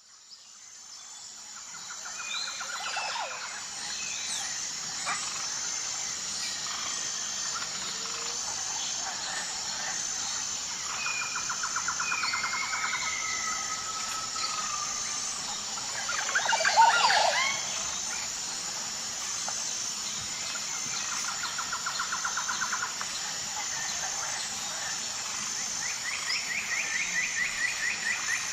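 Tropical forest birds calling over a steady, evenly pulsing high-pitched buzz: several rapid trills at intervals, a few gliding whistles, and a louder flurry of calls about 17 seconds in. The sound fades in over the first few seconds.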